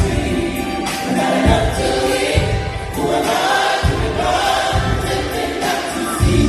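Gospel choir singing together in sustained, bending lines, with low thuds underneath.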